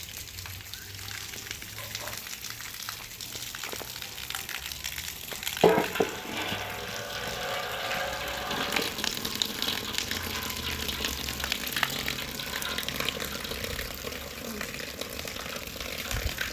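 Steady crackling sizzle of food frying in a pan, with a loud knock about six seconds in.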